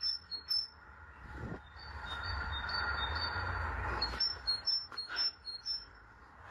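Short high bird chirps repeating several times a second, over a steady outdoor rumble and hiss.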